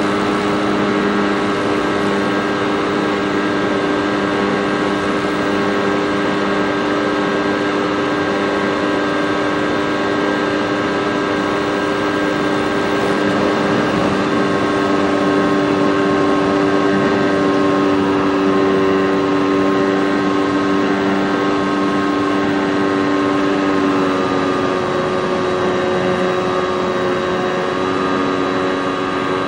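RC model airplane's motor and propeller running steadily in flight, with air rushing past, heard from the onboard FPV camera. The pitch shifts slightly about three-quarters of the way through.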